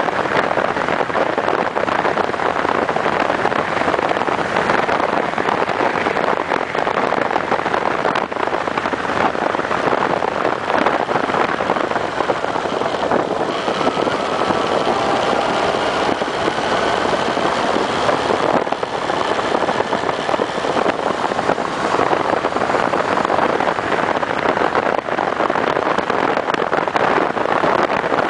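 Honda CB1300's inline-four engine running at road speed under a steady rush of wind noise. Between about 13 and 20 seconds in, the engine note rises as the bike accelerates.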